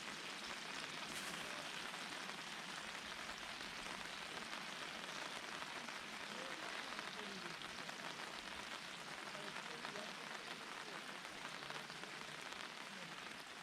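Steady rain falling on surfaces, an even hiss without breaks.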